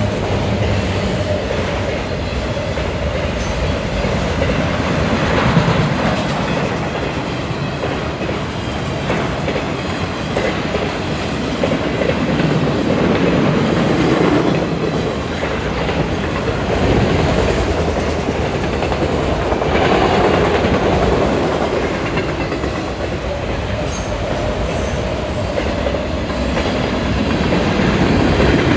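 Freight cars of a manifest train rolling past at speed over a grade crossing, with a loud, continuous rumble and wheel clatter on the rails that swells and eases as the cars go by.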